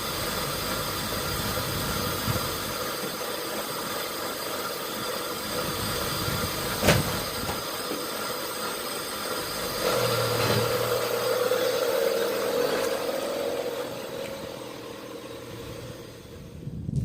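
Honda Del Sol's four-cylinder engine running just after a camshaft replacement, and it sounds like crap. There is a sharp click about seven seconds in, a low hum joins from about ten seconds, and the sound fades away near the end.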